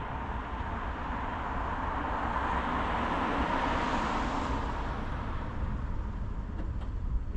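Road noise of a car driving along: steady tyre and engine noise that swells in the middle and then eases off.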